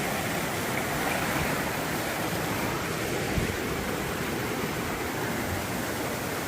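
Swollen river rapids rushing steadily, running high and strong after a day of rain.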